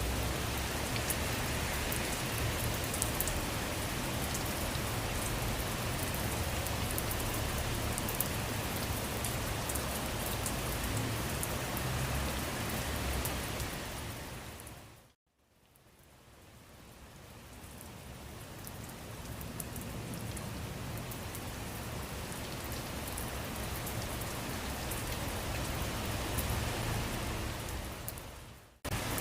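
Steady rain: a dense hiss with scattered sharp drop ticks. About halfway through it fades out to silence, then slowly fades back in. Near the end it dips briefly and cuts straight back in at full level.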